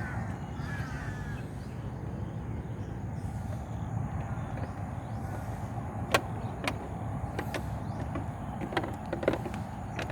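Steady low outdoor rumble with short bird calls near the start and a few sharp knocks or clicks in the second half.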